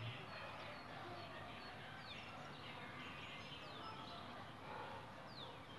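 Birds calling: short, high chirps that slide downward in pitch, every second or two, over a faint steady outdoor background noise.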